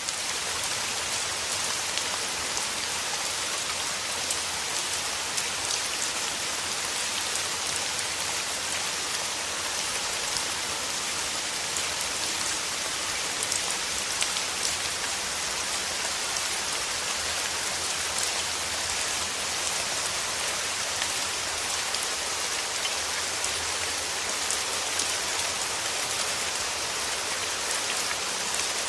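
Steady rain falling: a dense, even hiss of raindrops with single drop hits standing out now and then.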